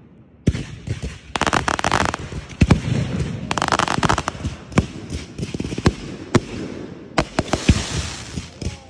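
Aerial fireworks going off in quick succession: about half a second in, a barrage begins of sharp bangs mixed with stretches of dense crackling.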